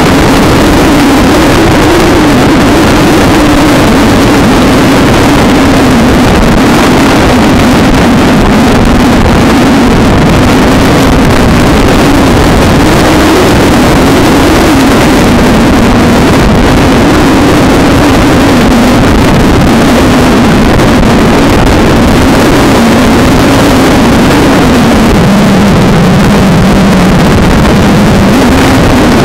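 Vehicle engine running steadily at speed, very loud, with heavy road and wind noise; its drone drops slightly in pitch near the end.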